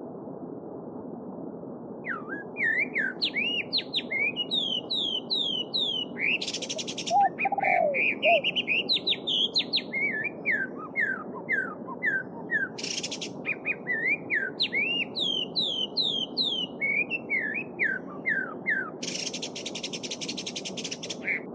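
A songbird singing fast runs of short, sweeping whistled notes from about two seconds in, over the steady rushing murmur of a small stream.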